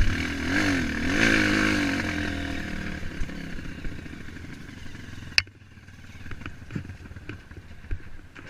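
Motorcycle engine revving up and down, then easing off and fading. A sharp click comes about five seconds in, after which it is quieter with scattered small knocks.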